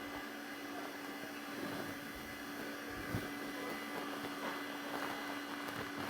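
A steady hum with an even background hiss, and a faint knock about three seconds in.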